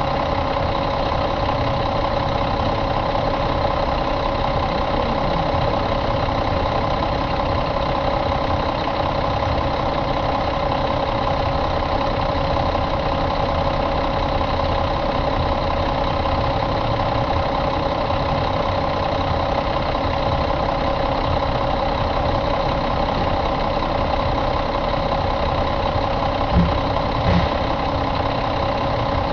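Mack E7 inline-six diesel engine idling steadily at an even speed. Two brief low thumps come near the end.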